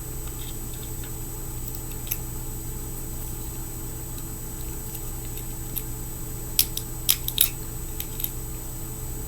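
A few small sharp clicks and taps from fingerboard parts being handled while a truck is fitted to the deck: one about two seconds in and a quick cluster near the end. A steady electrical hum runs underneath.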